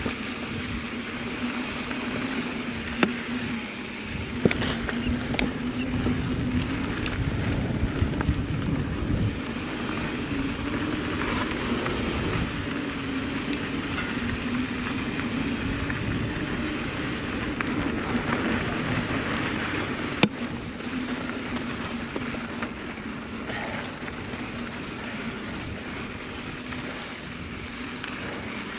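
Mountain bike rolling along a dirt trail: steady tyre and drivetrain noise with wind on the microphone, and a few sharp knocks from the bike over bumps.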